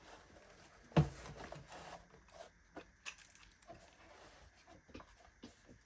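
Handling of boxed accessories and their packaging: a single knock about a second in, then scattered light rustling, scraping and small clicks.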